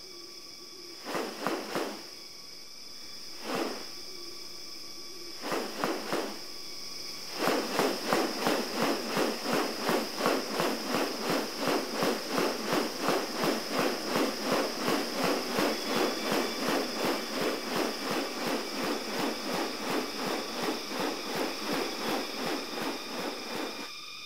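Rainforest wildlife sound: a steady, high-pitched insect drone, with a few short calls in the first six seconds. From about seven seconds in, a fast, even series of pulses, roughly three a second, carries on to the end.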